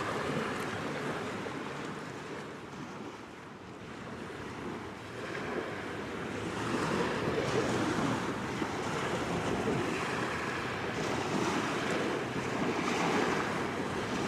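Wind blowing across the microphone, mixed with waves washing on the shore. The noise dips a few seconds in, then swells back up.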